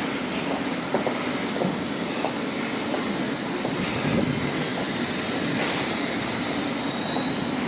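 Thameslink electric train running steadily along the track, with irregular knocks from the wheels over rail joints. A faint high wheel squeal comes in near the end.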